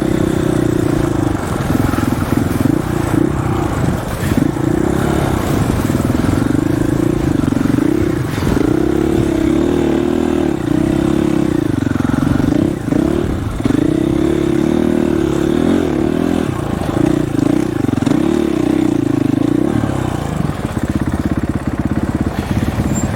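Dirt bike engine under way, its revs rising and falling again and again with the throttle, then running steadier near the end.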